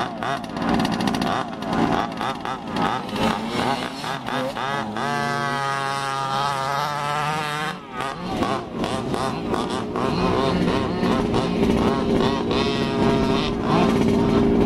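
Small two-stroke engines of large-scale RC cars running on a track, buzzing and revving with the pitch rising and falling as several cars pass. Around the middle one engine holds a steady high pitch for a few seconds.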